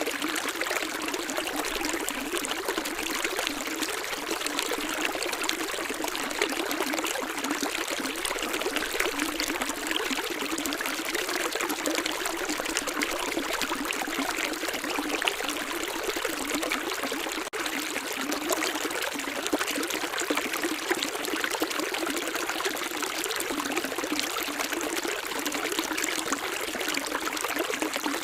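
Running water of a small stream, trickling and splashing steadily without a break.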